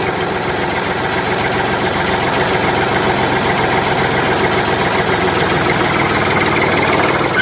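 A small motor running steadily at a constant speed, with a dense buzz.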